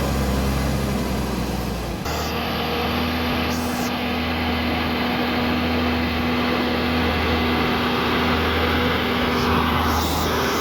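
Diesel engine of a Kawasaki 80 wheel loader running steadily, being tested after a turbocharger repair. Its note changes about two seconds in, and a steady hum holds until near the end.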